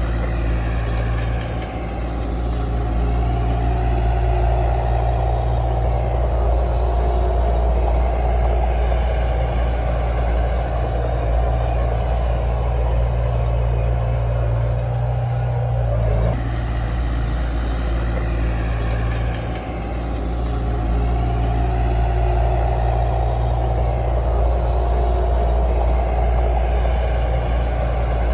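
Komatsu D31 bulldozer's diesel engine running steadily under load, its note swelling and easing twice over as the machine works, with a sudden change in sound about halfway through.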